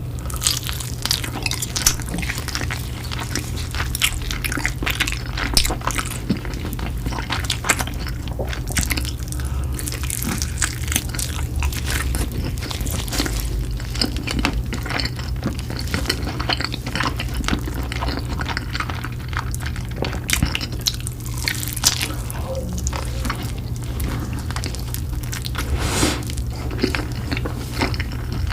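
Eating sounds: food being chewed and crunched, in many short, irregular clicks, over a steady low hum.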